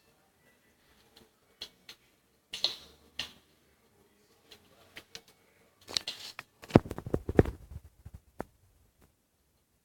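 Wood fire in a fireplace crackling: scattered sharp snaps, then a dense run of loud pops and low thuds about six to eight seconds in.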